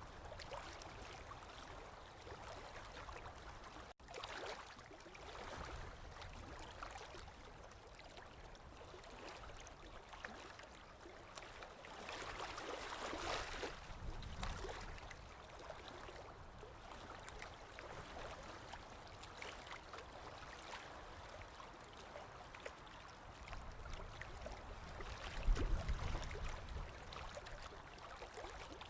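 Running water, like a stream, flowing and gurgling steadily, with a louder swell about halfway through. A brief low rumble comes near the end.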